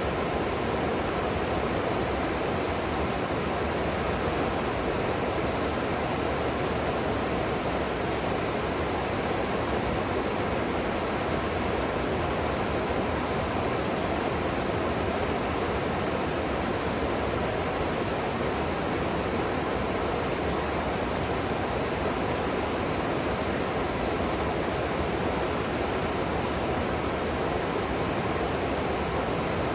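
River water rushing steadily below, a constant even hiss and rumble.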